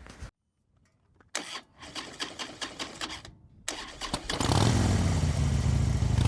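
An engine turned over by its starter in a quick series of regular clicks, then catching about four seconds in and running steadily.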